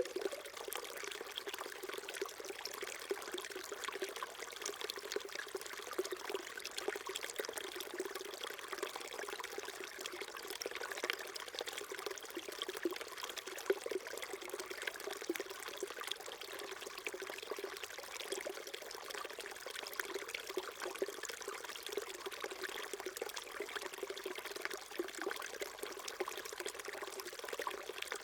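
Small mountain stream flowing steadily over rocks: continuous trickling and burbling of shallow running water.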